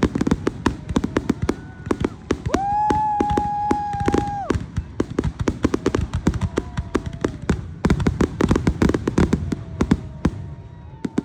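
Fireworks crackling: a dense, rapid run of sharp pops and bangs throughout. About two and a half seconds in, a steady high tone sounds for about two seconds over the crackle.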